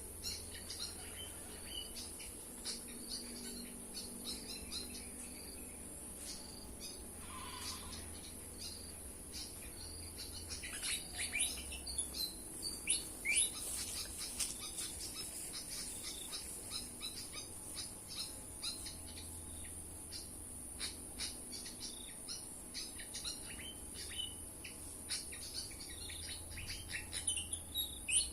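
Small songbird chirps and quick falling call notes, coming thickest from about ten seconds in and again near the end, over a steady high insect drone.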